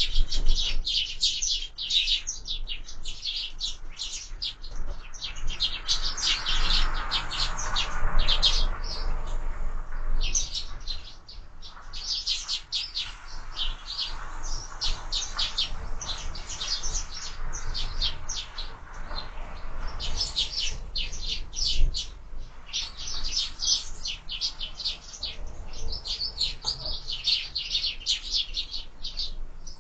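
A flock of sparrows chirping constantly, many short rapid high chirps overlapping with only brief lulls.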